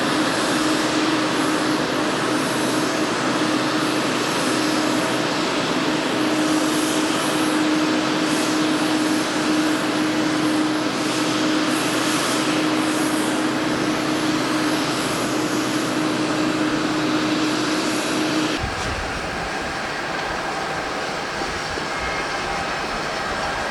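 Jet airliner engines running loud and steady, with a held hum. About 19 seconds in the sound cuts abruptly to a quieter, deeper rumble.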